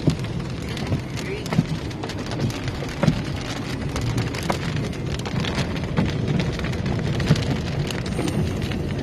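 Rain hitting a moving car, heard from inside: many irregular raindrop taps over a steady low rumble of road noise.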